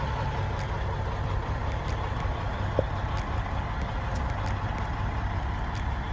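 1999 Peterbilt 379's diesel engine running with a steady low rumble, with one short sharp click about three seconds in.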